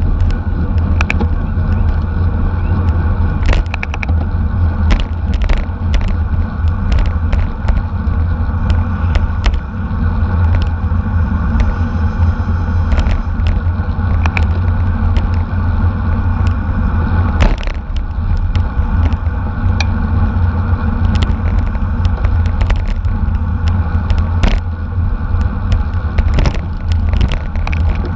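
Steady wind rumble and road noise from a road bicycle racing in a criterium, with scattered short clicks and rattles throughout.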